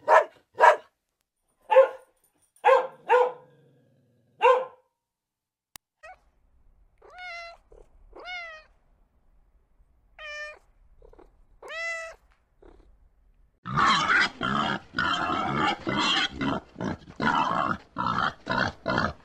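A run of domestic animal calls. First come about six short, sharp calls, then four drawn-out calls that rise and fall in pitch. About two-thirds of the way through, a loud, dense clamor of many animals calling over one another begins and carries on.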